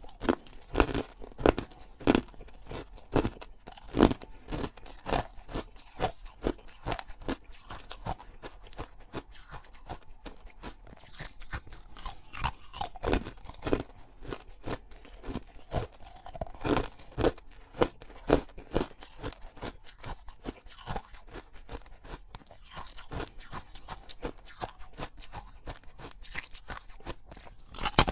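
Close-miked biting and chewing of something crunchy: sharp crunches come in quick clusters, with quieter crackling chewing between them.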